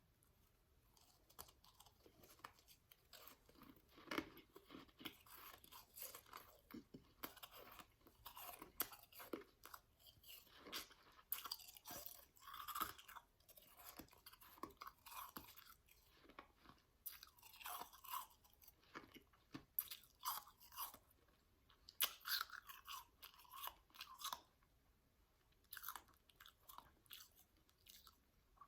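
A person chewing powdery shaved ice close to the microphone: irregular soft crunches and mouth clicks, with short pauses between bites.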